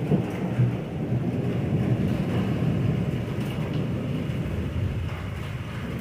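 Long, low rolling rumble of thunder that swells in just at the start, holds for several seconds and eases off near the end, over a faint hiss of rain.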